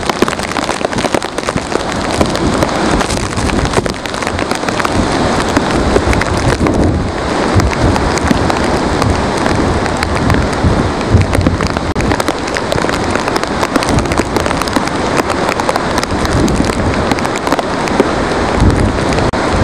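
Heavy wind-driven hurricane rain pelting a pane of glass: a dense, steady patter full of sharp taps, with irregular low gusty rumbles.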